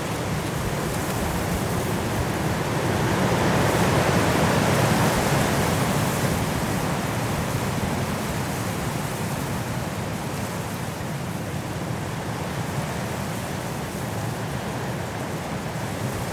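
Strong wind rushing through trees in a snowstorm, a steady roar that swells into a gust about four seconds in and slowly eases off.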